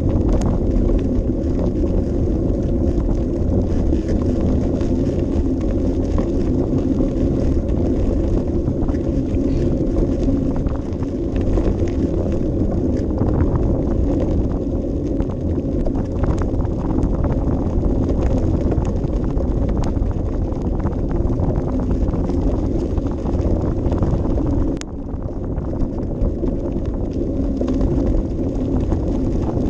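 Bicycle ride heard from a camera mounted on the bike: tyres rolling and the frame rattling over the path, with steady wind buffeting the microphone. The noise eases briefly about 25 seconds in.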